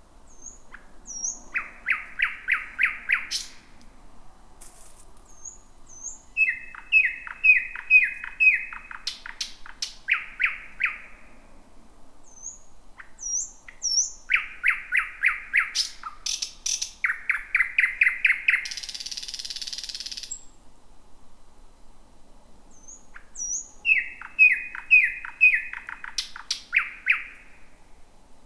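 Thrush nightingale singing: phrases of loud, fast repeated notes at about five a second, broken by short pauses, with thin high whistles in between and a harsh rattle about two-thirds of the way through.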